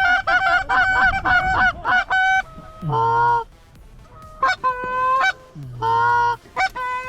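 Canada goose calls blown by hunters to bring geese back in: a fast run of short clucks, then several longer, drawn-out honks about a second apart.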